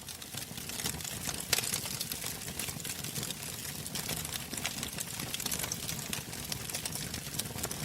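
Wood fire crackling in a fireplace: a steady hiss dotted with many small pops, and one louder pop about a second and a half in.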